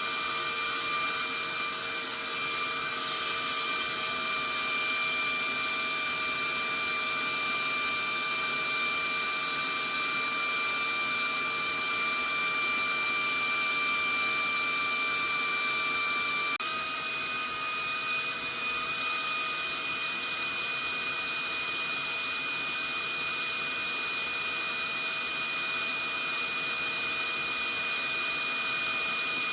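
Vacuum cleaner motor running steadily: a hiss of rushing air with a high, held whine over it. About halfway through, the sound steps up a little louder and the whine shifts slightly in pitch, then runs on evenly.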